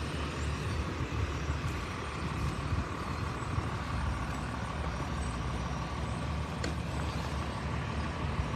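Heavy truck engine running steadily, a low, even rumble with a faint steady whine above it. A single sharp click sounds about two-thirds of the way through.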